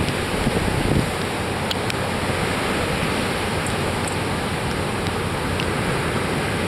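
Rough post-typhoon surf breaking and washing up a sandy beach in a steady rush, with strong wind buffeting the microphone.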